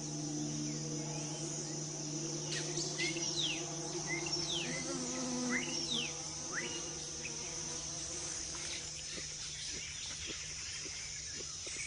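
Tropical rainforest ambience: a steady, high-pitched drone of insects, with a run of quick chirps sweeping up and down in pitch from a few seconds in to about the middle. A low steady hum underneath fades out around the middle.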